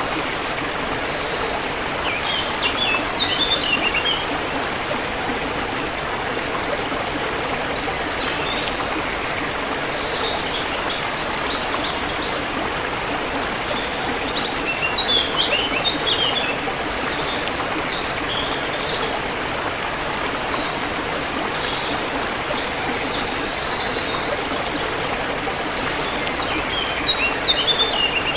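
A forest stream flowing steadily, with small birds chirping in short bursts of high notes every few seconds over the rushing water.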